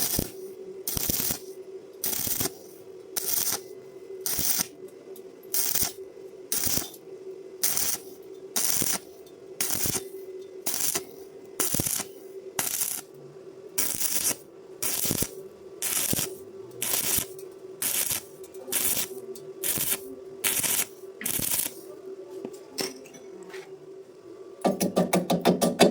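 Arc welding done in short bursts, a crackling arc struck about once a second and cut off each time, as in stitch or tack welding on thin iron; a faint steady hum runs underneath. Near the end a faster, louder rattling takes over.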